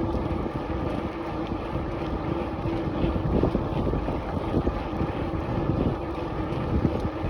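Wind rushing over the microphone of a bicycle rider on the move, with a steady low rumble of riding along.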